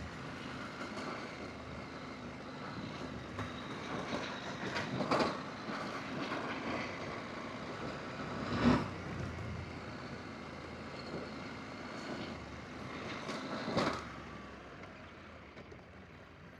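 Adventure motorcycle riding on a dirt forest road: engine and wind noise, with three sharp knocks, the loudest about halfway through. It gets quieter near the end.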